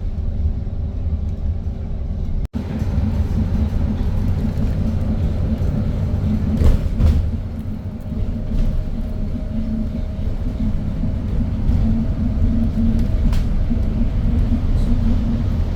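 Steady low rumble of a moving vehicle, with a brief louder noise about seven seconds in and a short break at a cut early on.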